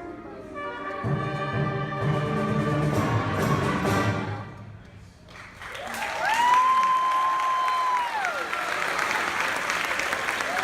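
School concert band playing a piece to its final chord, which dies away about five seconds in. Audience applause follows, with one long whistle from the crowd rising, held for about two seconds, and falling away.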